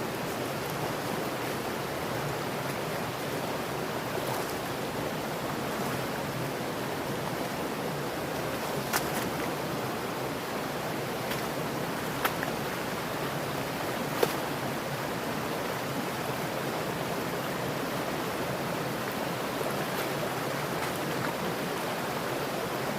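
Mountain stream flowing in a steady, even rush of water, with three short clicks near the middle.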